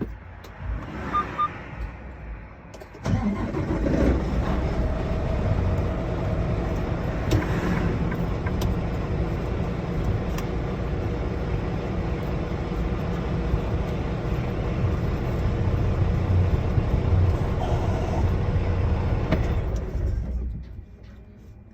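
Semi truck's diesel engine starting up about three seconds in, running steadily at idle, then shutting off near the end.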